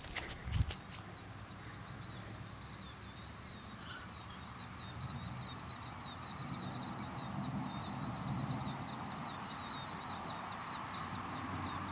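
A bird chirping over and over in quick, high little notes, over steady outdoor background noise. A few knocks sound in the first second.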